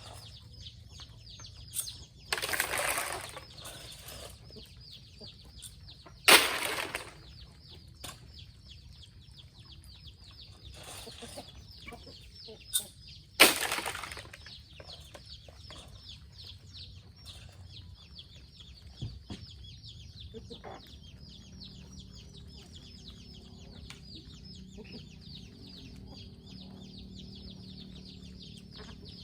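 Chickens clucking, with wings flapping in three loud, noisy bursts about two, six and thirteen seconds in, over a steady high-pitched buzz.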